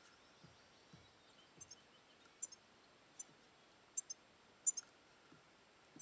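Faint garden background with about ten short, sharp, high-pitched clicks from birds at a seed feeder, several coming in quick pairs, the loudest pair near the end.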